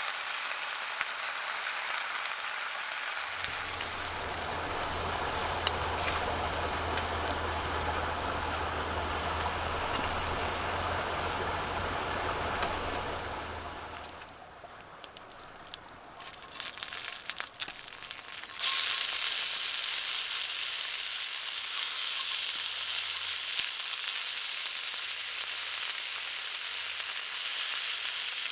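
Food frying in a pan, sizzling steadily, with a low hum under the first half. Around the middle it goes quieter, a few clattering knocks sound, then a louder, brighter sizzle takes over for the last third.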